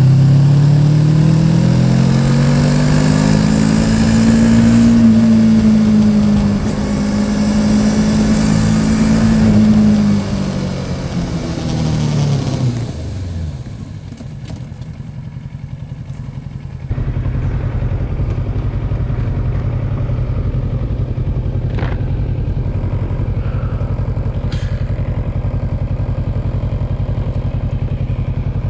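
Yamaha Tracer 700's parallel-twin engine pulling under throttle, its pitch rising and then falling away as the bike slows over the first dozen seconds. It then quietens, and from about 17 seconds in it settles into a steady low idle.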